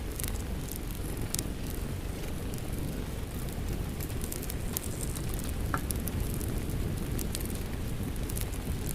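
Fireplace crackling over a steady bed of rain: a constant low rumble with scattered sharp pops and snaps throughout.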